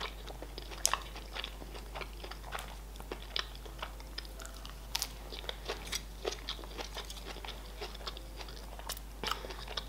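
Close-miked chewing: a person biting and crunching a crisp lettuce leaf, with irregular small crunches and mouth clicks.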